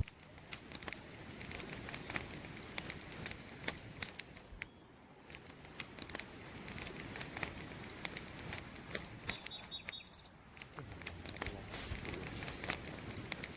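Campfire crackling: burning wood popping and snapping in irregular sharp crackles, with a brief lull about five seconds in. A couple of faint, short high chirps come a little past the middle.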